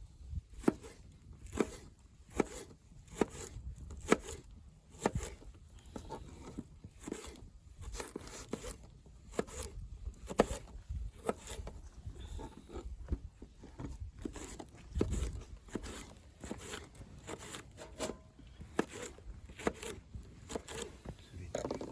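Wood campfire crackling, with sharp, irregular pops and snaps about once or twice a second over a low rumble.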